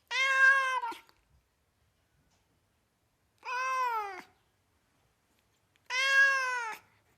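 Domestic cat meowing three times, each meow just under a second long and falling in pitch at the end, with silent pauses of about two seconds between them.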